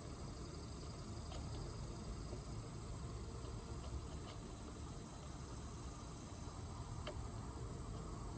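Insects trilling in one unbroken, high-pitched drone, over a low background rumble, with a few faint short chirps.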